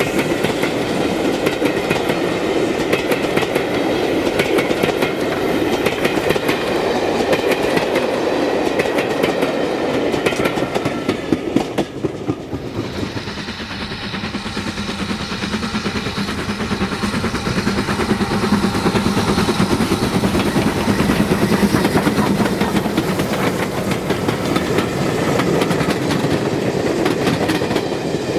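A steam-hauled train running past, its wheels clattering over the rail joints. The clatter dips briefly about halfway through, then builds again.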